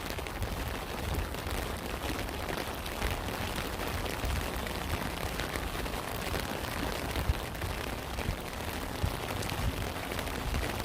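Steady rain, countless small drops ticking over an even hiss with a low rumble underneath, and a slightly louder drop tap about seven seconds in.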